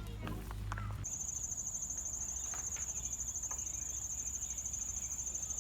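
Insects chirping in a steady, rapidly pulsing high-pitched trill, starting abruptly about a second in.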